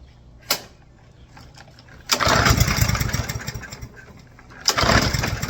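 Gas lawnmower engine being pull-started twice: each pull sets off a loud, rough burst of engine noise that fades away over about two seconds rather than settling into a steady run, on a carburetor that had run dry of fuel. A sharp click comes about half a second in.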